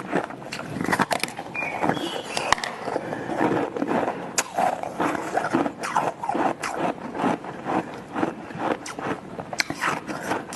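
Close-miked biting and chewing of flavoured shaved ice, a continuous run of crisp crunches and clicks in quick succession.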